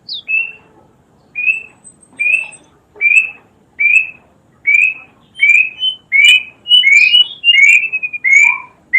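Plaintive cuckoo (burung kedasih) singing: a series of short whistled notes, each rising slightly, repeated a little under a second apart and coming faster toward the end. Fainter, higher chirps join in the second half.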